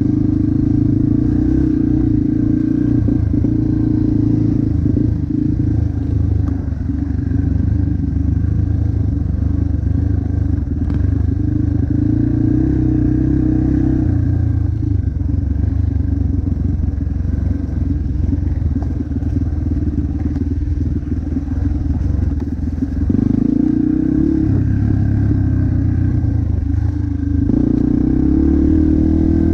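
Motocross dirt bike engine running hard and loud, its pitch stepping up and down with throttle and gear changes.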